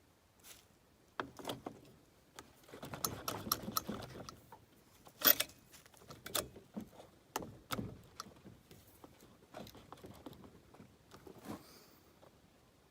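A chainsaw chain being handled and fitted: loose metal links rattling and clicking, with a sharp clack about five seconds in.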